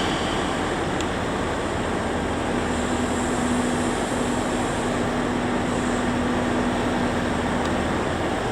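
Train at a station platform: a steady running noise with a low steady hum that comes in about two seconds in.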